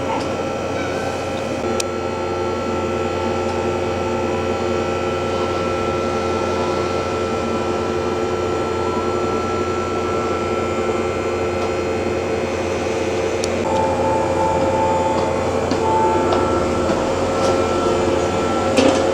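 Steady mechanical hum inside an electric train car: several steady tones over a low rumble. A faint pulsing higher tone joins about fourteen seconds in.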